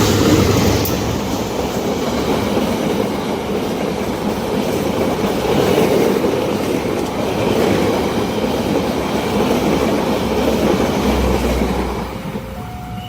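Passenger train passing a level crossing at speed: a loud, steady rush of wheel and carriage noise on the rails that falls away about twelve seconds in. Near the end the crossing's two-tone warning alarm comes through again.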